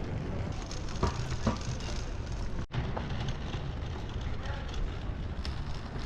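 Wind rumbling on the microphone over outdoor street background noise, with a couple of short clicks about a second in and a momentary dropout near the middle.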